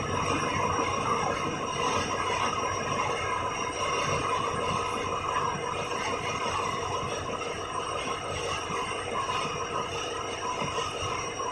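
Engine-room noise of a Sulzer 6RTA48T-B six-cylinder two-stroke slow-speed marine diesel main engine running: a steady, dense mechanical din with a constant hum.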